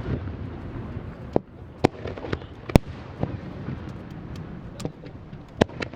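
Fireworks display: aerial firework shells bursting in irregular succession, sharp bangs every half-second to second or so over a continuous low rumble of further explosions. The loudest bang comes near the middle.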